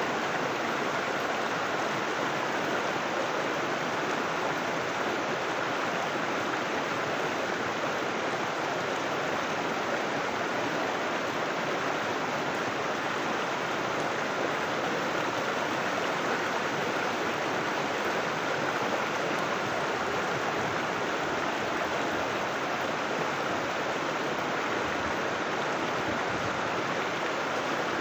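River water rushing and burbling over rocks, a steady unbroken flow.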